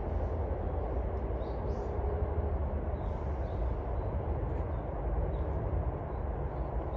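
Steady low rumbling outdoor noise, with a few faint, short, high bird chirps in the first half.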